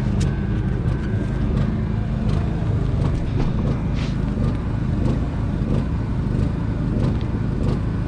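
An engine running steadily, a low even drone, with a few faint clicks.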